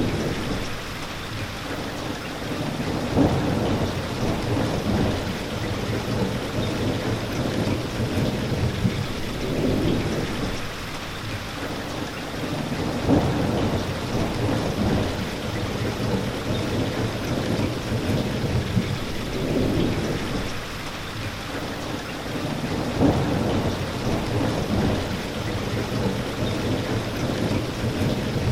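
Steady rain with low rumbles of thunder that swell and fade every few seconds, and a sharper peak about every ten seconds.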